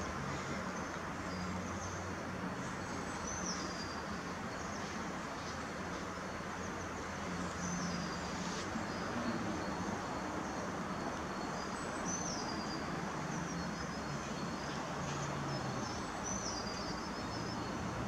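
A songbird repeats the same short high phrase four times, about every four and a half seconds, over a steady rush of background noise.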